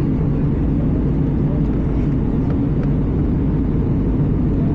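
Steady low cabin drone of an Airbus A320 airliner in flight, heard from a passenger seat: engine and airflow noise with a constant low hum.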